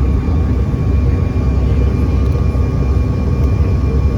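Steady jet engine drone heard inside an airliner cabin: a constant low rumble with a thin, unchanging whine over it.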